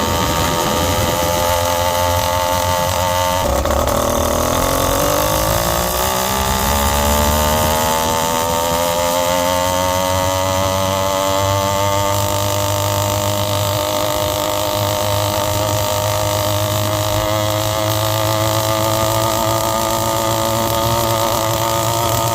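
Zeda YD100 two-stroke motorized-bike engine running through an expansion-chamber pipe. Its pitch drops suddenly a few seconds in, then climbs steadily over several seconds, like accelerating, and holds steady for the rest.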